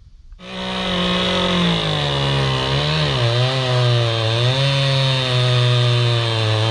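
Small gas chainsaw at full throttle cutting a large tree trunk, starting about half a second in. Its pitch sags about three seconds in as the chain bogs down in the cut, then holds lower and wavers.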